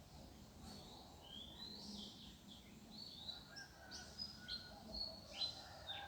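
Several small birds chirping and calling: short whistled notes that rise and fall, coming thicker and louder in the second half.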